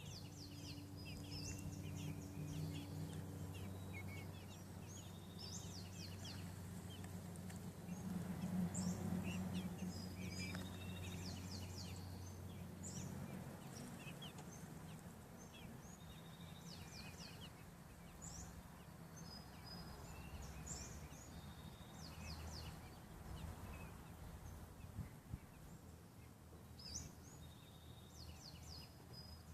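Birds chirping and peeping in many short, high notes scattered throughout, over a low, steady droning hum that swells about eight seconds in.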